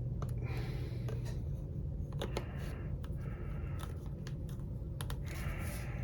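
Small plastic attachments and packaging being handled: scattered light clicks and rustling in short patches, over a steady low hum.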